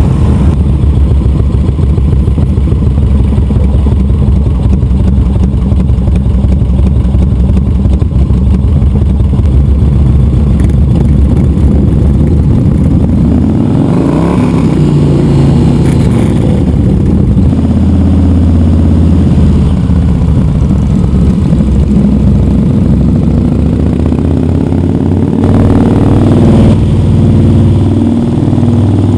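Motorcycle engine running steadily under way. Its pitch slides down and climbs again a little after halfway, and once more near the end, as the rider changes speed.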